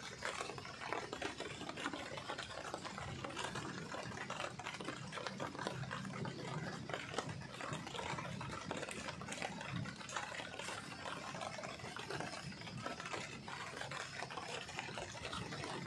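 Light rain pattering: a steady, dense crackle of small drops.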